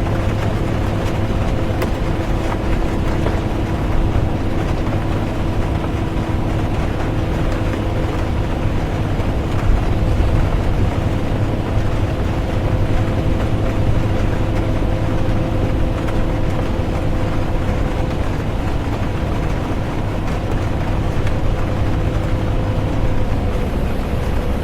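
Inside a moving bus: a steady engine drone with a few constant tones over low road rumble, and an even hiss of rain and tyre noise mixed in.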